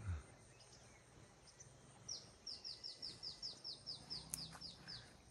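A bird calling a rapid run of about a dozen short, high notes, each sliding downward, about four a second, for around three seconds starting about two seconds in.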